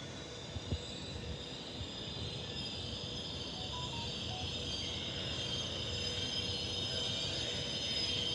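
Train moving through a railway station, its rolling noise slowly growing louder, with a high steady whine over it and two sharp clicks under a second in.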